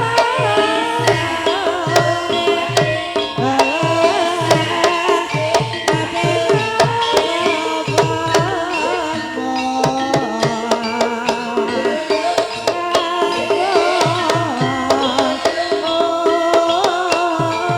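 Javanese gamelan-style music accompanying an ebeg dance: a kendang hand drum beating a busy rhythm over layered tuned percussion, with a singer's voice at times.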